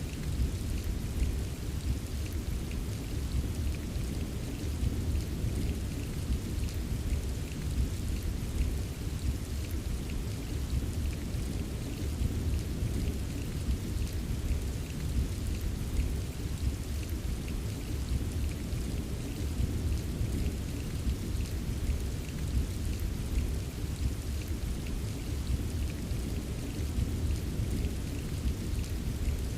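Steady rain falling, with faint scattered drop ticks over a continuous deep rumble. There are no distinct thunder claps.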